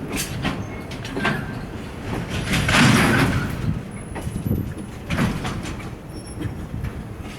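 Freight train of container flatcars rolling slowly into a station, its wheels knocking irregularly over the rail joints over a steady rumble, louder for about a second in the middle, with a few faint short wheel squeaks.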